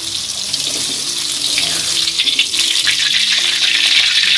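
Battered eggplant pieces frying in hot oil in a wok: a steady sizzling hiss that grows louder in the second half as the fried pieces are lifted out with a slotted spatula.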